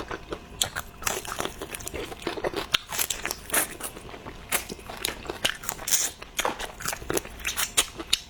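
Close-up eating sounds: a person biting and chewing crunchy food, a rapid, irregular run of crisp crunches and wet mouth clicks.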